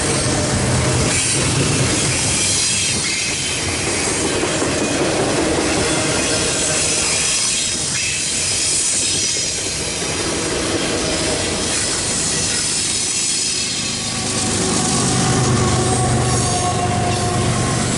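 Union Pacific double-stack intermodal train rolling past: loaded container well cars rumbling over the rail with a high, thin wheel squeal. Near the end a mid-train diesel locomotive passes, and its engine adds a low hum.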